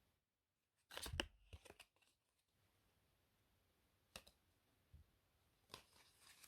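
Playing cards handled close to the microphone: a short flurry of crisp card flicks and rustles about a second in, a single snap of a card near four seconds, and more soft card rustling near the end.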